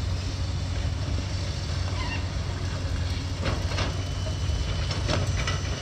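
Heavy diesel engine of demolition machinery running steadily, a low rumble, with a few faint knocks and clatters over it.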